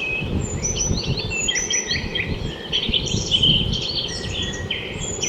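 Several small birds chirping and twittering, with many short calls overlapping, some of them falling in pitch. A low rumbling noise runs underneath.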